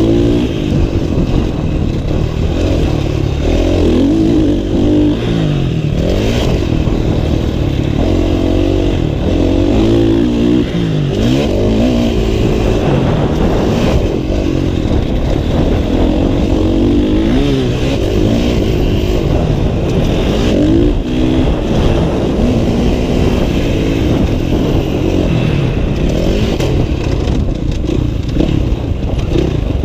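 Motocross dirt bike engine running hard and loud, its pitch climbing and dropping back again and again every second or two as the throttle is opened and closed and the gears change.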